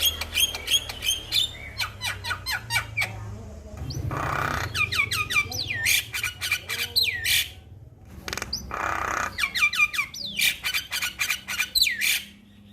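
Male Javan myna (jalak kebo) singing: fast runs of sharp clicking notes mixed with hooked whistles, and a harsh rasping burst about four seconds in and again about nine seconds in.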